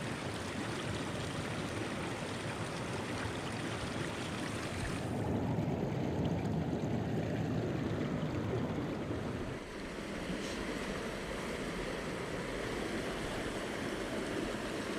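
Mountain stream rushing over rocks: a steady noise of flowing water. Its sound shifts abruptly about five seconds in, losing its hiss and growing deeper, and changes again near ten seconds.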